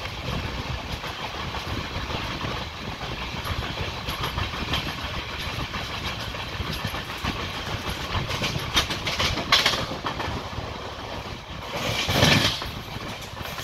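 Passenger train running at speed, heard from on board at the side of the coach: a steady rumble and rattle of wheels on the rails, with two louder rushes of noise, about nine and a half seconds in and around twelve seconds in.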